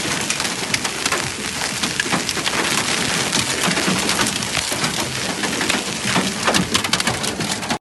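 Heavy rain mixed with hail striking hard surfaces: a steady downpour hiss thick with many sharp, irregular impacts of hailstones.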